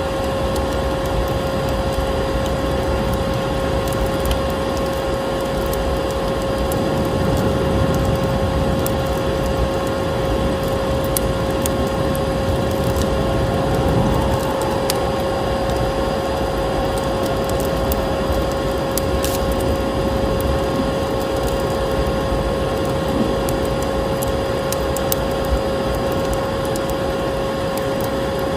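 Vacuum cleaner running steadily with a constant whine, mixed with the scattered crackle and pops of a wood fire in a fireplace.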